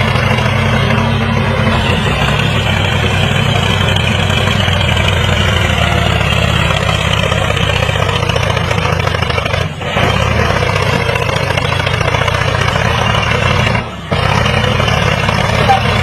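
An engine running steadily, with two brief dips in the sound about ten and fourteen seconds in.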